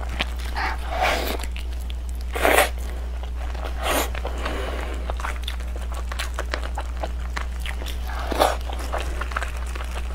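Close-miked mukbang eating of braised meat on the bone: chewing and lip-smacking with short clicks, and meat being torn from the bone, the loudest bursts about two and a half seconds in and again near the end. A steady low hum runs underneath.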